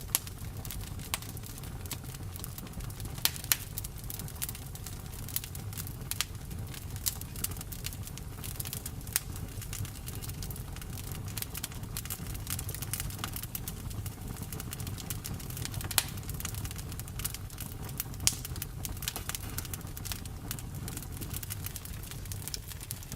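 Campfire burning: wood crackling and popping in irregular sharp snaps over a steady low rumble of flames, with a few louder pops standing out.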